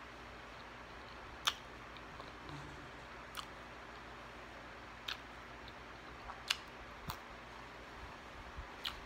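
Close-up chewing of food with the mouth closed: about six short, sharp wet clicks and smacks at irregular moments, over a steady faint hiss.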